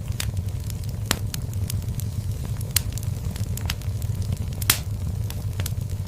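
Wood fire burning in a fireplace: a steady low rumble of the flames with irregular sharp crackles and pops, the loudest pop a little before the five-second mark.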